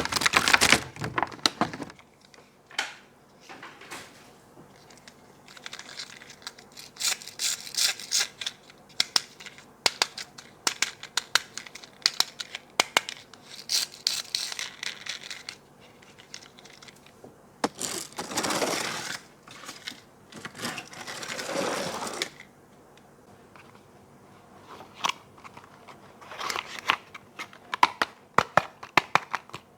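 Toy packaging being handled and opened: rustling and tearing of plastic and cardboard in several stretches of a second or two, among many sharp clicks and taps.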